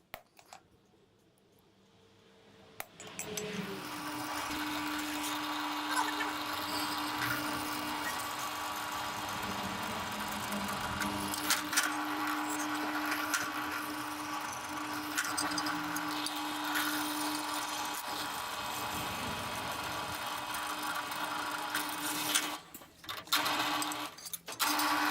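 Drill press running and drilling pin holes through the steel tang of a knife: a steady motor tone that starts about three seconds in and cuts out briefly twice near the end.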